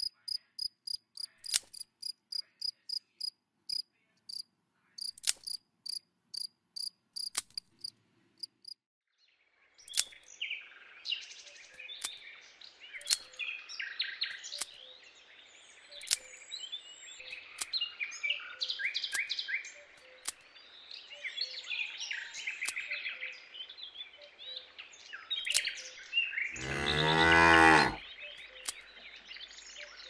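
A cricket chirping in an even rhythm for the first several seconds, then birds twittering, and near the end one loud cow moo falling in pitch.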